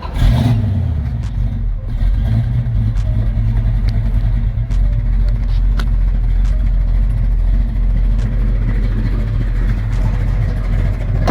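Plymouth 'Cuda's 440 big-block V8 running: it comes in suddenly and flares briefly, then settles into a steady idle.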